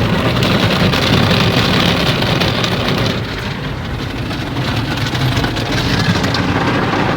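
Automatic car wash machinery running, heard from inside the car cabin: a steady rush of water spray and equipment noise on the car's body, easing slightly about three seconds in.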